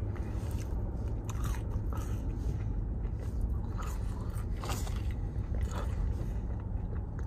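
A person chewing breaded spicy chicken fries with the mouth closed, giving scattered irregular crunches and crackles over a steady low hum.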